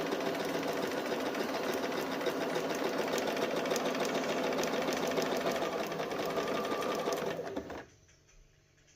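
Bernina 1030 sewing machine running steadily at speed, stitching a satin stitch (close zigzag at a short stitch length); it stops about seven and a half seconds in.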